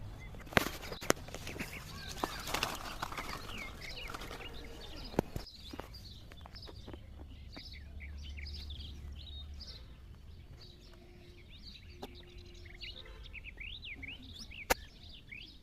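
Small birds chirping and twittering continuously, with a few sharp clicks or snaps in between.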